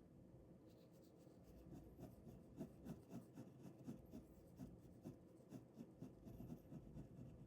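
Ballpoint pen drawing on paper in short, quick, faint strokes, about three a second from about two seconds in.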